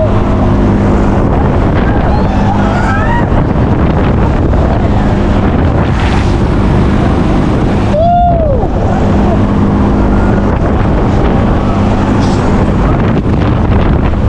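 A fairground thrill ride running, with a steady machine hum under heavy wind noise on the microphone. About eight seconds in, a brief tone glides up and back down.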